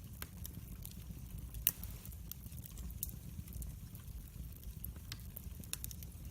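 Wood fire crackling in a fireplace: irregular sharp pops and snaps over a steady low rumble of the flames, with one louder pop a little under two seconds in.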